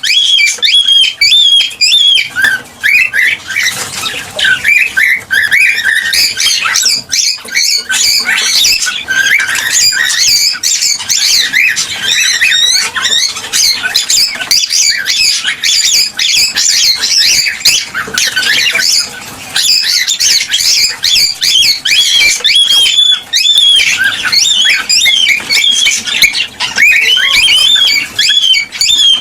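Cockatiels chirping and whistling without pause, with many short calls overlapping.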